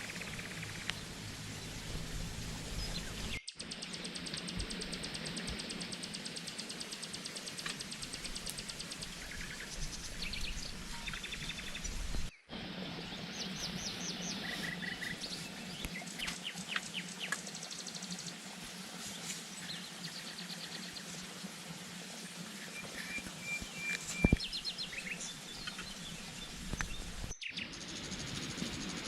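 Outdoor ambience of birds chirping and an insect trilling over a steady background hiss, with one sharp knock about three-quarters of the way through. The background breaks off abruptly three times.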